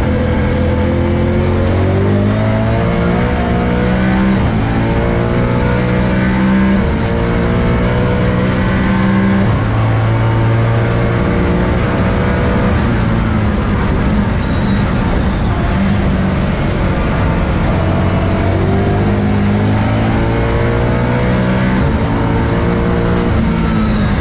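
BMW M3 race car engine accelerating hard through the gears: the revs climb and drop back at each quick upshift, twice over with a steadier spell between.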